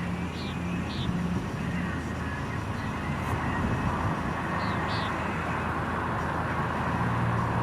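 Steady rushing vehicle noise with a low hum that comes and goes, and a few short high chirps.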